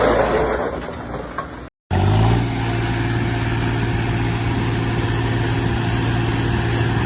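Heavy diesel engine running steadily at a constant speed, with a brief cut to silence about two seconds in, after which the engine note picks up slightly and holds steady.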